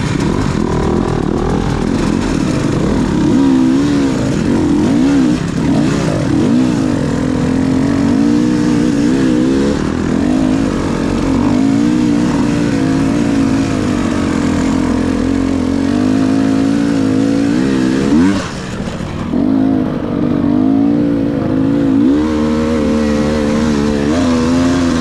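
Motocross dirt bike engines running, the pitch rising and falling as the throttle is worked. About 18 seconds in the sound drops briefly, then climbs steeply as an engine revs up.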